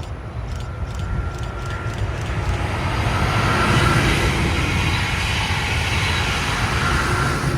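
Brightline high-speed passenger train, hauled by a Siemens Charger diesel-electric locomotive, passing at speed: a rushing rumble that builds over the first few seconds, holds, and starts to fade at the very end.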